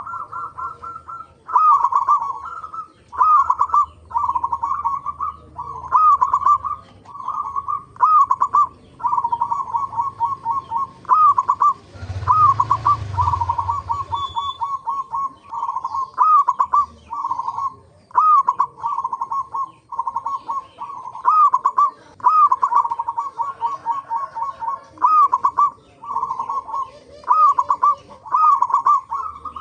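Zebra doves (perkutut) calling: repeated cooing phrases of hooked, upswept notes running into quick even trills, one every second or two and partly overlapping. A short rumbling noise breaks in about twelve seconds in.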